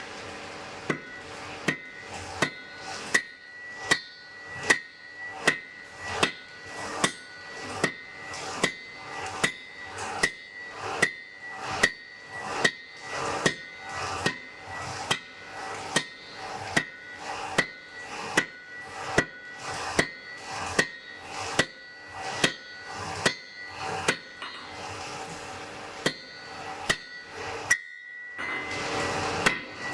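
Blacksmith's hammer striking on an anvil at a steady pace, about three blows every two seconds, each blow leaving the anvil ringing. The blows stop for a moment near the end, leaving a hiss, then start again.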